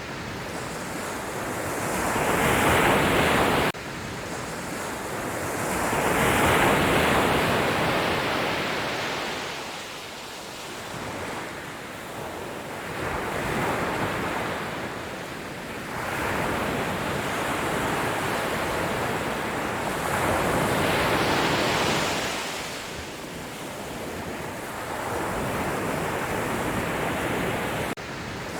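Sea waves breaking and washing up the shore, the surf swelling and falling back every few seconds. The sound drops abruptly about four seconds in.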